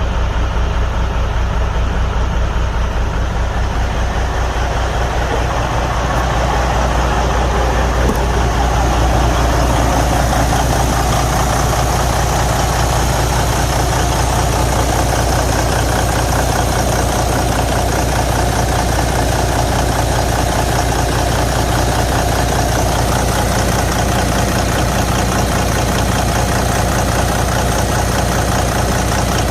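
Detroit DD15 inline-six diesel truck engine idling steadily with an even low pulse, growing a little louder about eight seconds in. This engine has a broken cylinder liner, with coolant in the oil and high crankcase pressure.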